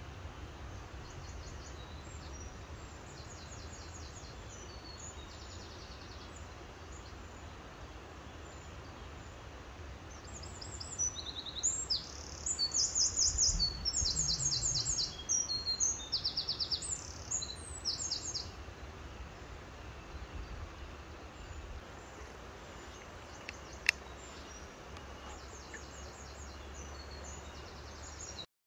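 Small birds chirping and trilling in quick repeated phrases, busiest in the middle, over a steady low outdoor background rumble. A single sharp click about three-quarters of the way through.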